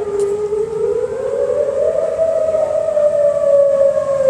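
Outdoor tornado warning siren wailing, a single sustained tone whose pitch dips, climbs about a second in, and then slowly sinks again toward the end. It is sounding for a tornado warning.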